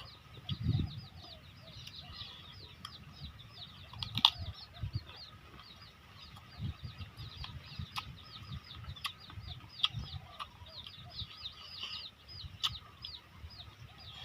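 Birds chirping continuously: many quick, short, high calls, each falling in pitch. Low dull knocks and a few sharp clicks come now and then.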